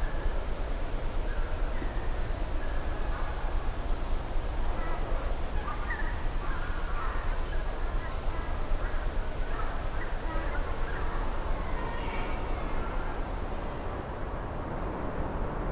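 Outdoor ambience: a high, steady insect chirring throughout, with scattered bird calls in the middle.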